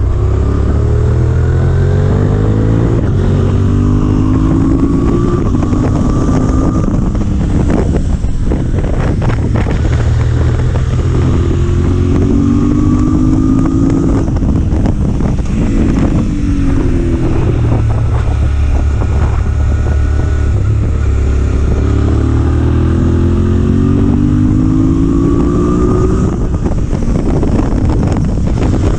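Motorcycle engine running under load, its pitch rising repeatedly and dropping back as it accelerates and shifts up through the gears, with wind noise on the microphone.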